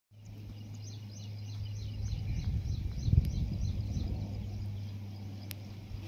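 Outdoor ambience: a bird calling in a rapid run of short high chirps, about four a second, that stops after about three and a half seconds, over a steady low hum. A low bump about three seconds in.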